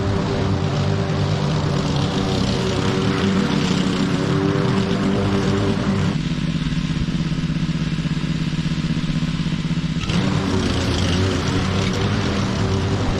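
Lawn mower engine running steadily. Its sound turns abruptly lower and duller about six seconds in, then returns to the brighter note about four seconds later.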